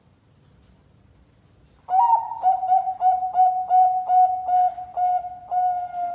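Zebra dove (Bangkok-type perkutut) cooing its song. After about two seconds of quiet it gives a quick run of short, clipped coos, roughly three a second, and ends on a longer held note.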